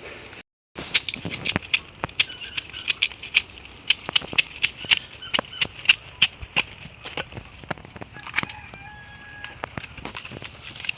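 Rapid, irregular sharp snaps and crackles, several a second, like dry plant material being broken or trodden. There is a brief cut-out just before they start.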